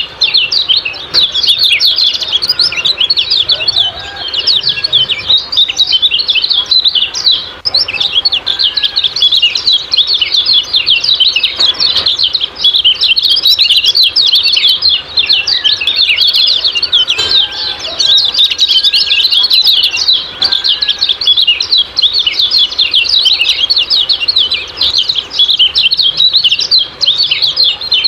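Kecial kuning songbird giving its rapid 'ciak-ciak' chirping call: a dense, unbroken stream of quick high chirps, loud and close.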